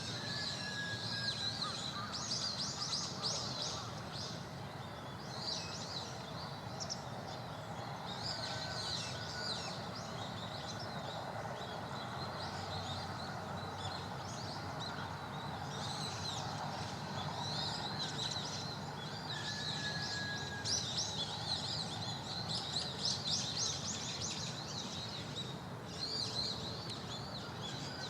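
Birds chirping and twittering in dense, repeated high calls throughout, with a few short, fainter whistles, over steady outdoor background noise.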